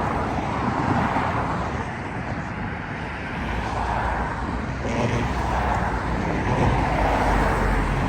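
Steady outdoor vehicle rumble, road traffic or aircraft, growing a little louder about five seconds in.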